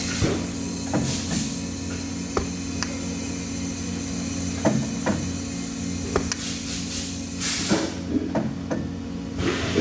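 Industrial workshop noise: a steady machine hum, scattered sharp metal taps, and several short hissing bursts of about half a second each.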